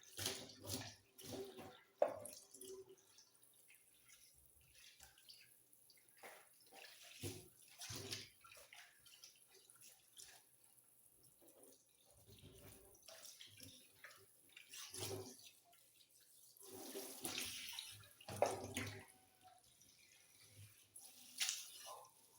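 Water splashing and running in a kitchen sink in irregular bursts as the sink is washed, with a few sharp knocks.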